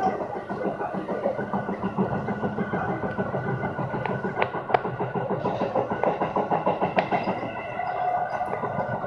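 Seibu Railway 4000-series electric train running along the track, heard from the driver's cab: steady running noise of wheels on rail, with a few sharp clicks about four to five seconds in and again near seven seconds.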